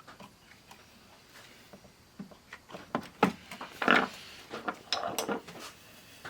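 Handling sounds at a workbench: scattered clicks, knocks and rubs as the opened 8-track player and its parts are moved about, with the loudest knocks past the middle.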